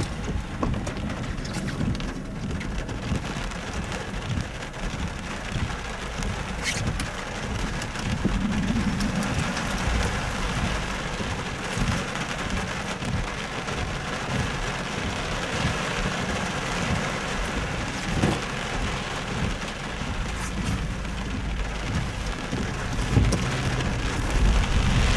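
Steady rain on a car's roof and windshield, heard from inside the car, over a constant low rumble.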